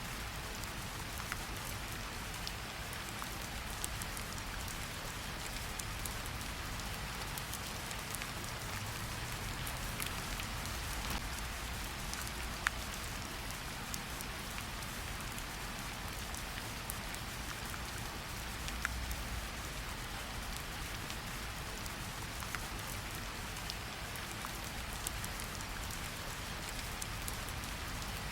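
Steady rain falling, with scattered sharper drops ticking and a low rumble underneath.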